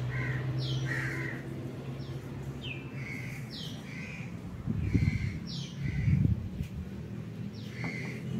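Birds calling over and over, about one call a second, above a steady low hum, with two louder rustling bumps around the middle.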